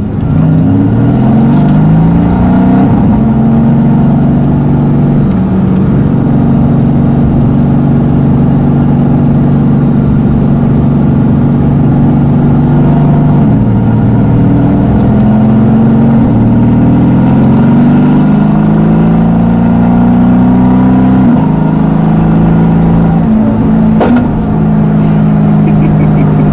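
Tuned Mercedes-AMG GT S twin-turbo V8 running hard under load, at a steady loud level. Its pitch climbs in steps over the first few seconds, holds steady, then drops about halfway through and climbs again.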